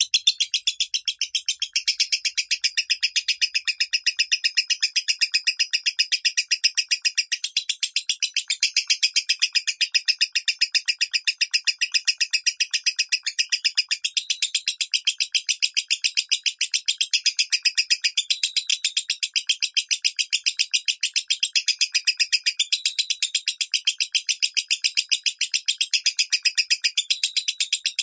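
Lovebird singing in the thin, high 'minor' voice: a long, unbroken run of rapid, evenly spaced, high-pitched chirps that never pauses.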